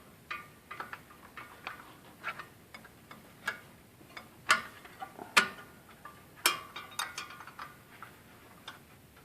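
Ratchet wrench clicking in short, irregular runs as it is worked back and forth on the fan clutch mounting nuts, with a few sharper metal clicks in the middle.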